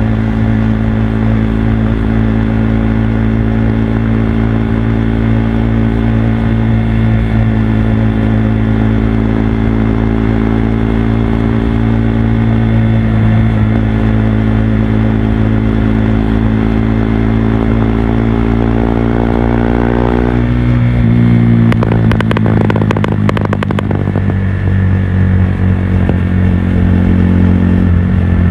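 Stage II-tuned KTM RC 390 single-cylinder motorcycle engine running under way. Its steady note slowly rises, drops suddenly about twenty seconds in, and crackles for a couple of seconds before settling at a lower steady note.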